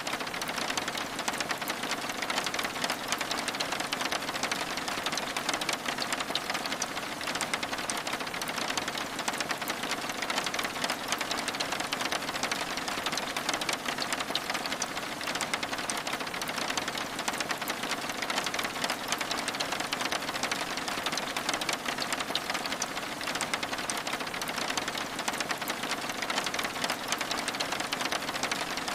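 Steady rain falling on a window, a dense and even patter of many fine drop ticks with no let-up.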